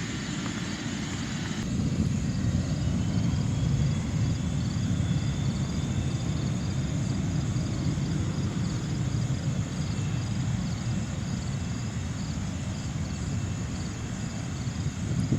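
Business jet climbing out after takeoff, its engines a steady low rumble with a faint high whine. A faint high chirping repeats evenly over it.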